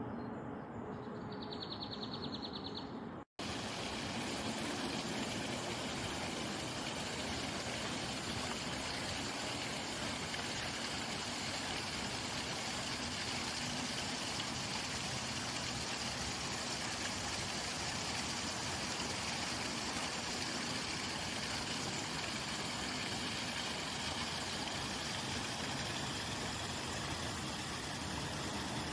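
Steady rushing outdoor noise with no distinct events, after a brief dropout about three seconds in; before the dropout a bird trills faintly.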